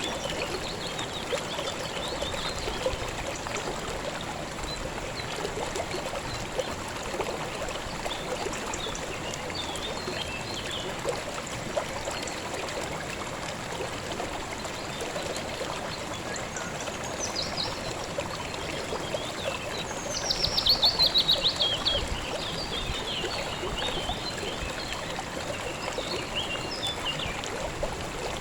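River water flowing steadily, with scattered bird chirps. About two-thirds of the way in, a bird gives a louder burst of rapid notes that fall in pitch over a second or two, the loudest sound here.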